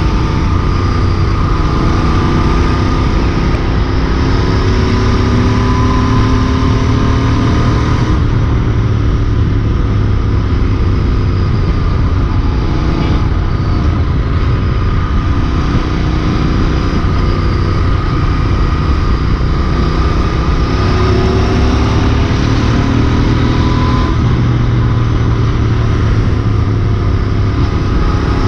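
Royal Enfield Interceptor 650's parallel-twin engine running hard at road speed, its pitch climbing for the first several seconds, breaking off about eight seconds in, then climbing again later, over heavy low wind rush.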